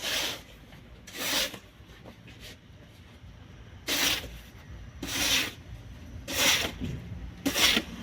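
Snow shovel scraping through snow in repeated strokes, about one every second and a bit, each a short rasping scrape.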